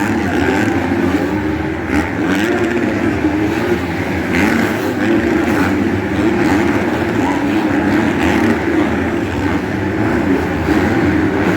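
Several motocross bikes racing on the track, their engines revving up and down and overlapping.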